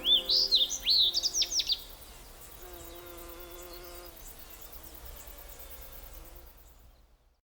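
Quick, high chirps from a small bird, a rapid series in the first two seconds, over dying musical tones, then only a few faint chirps trailing away to silence near the end.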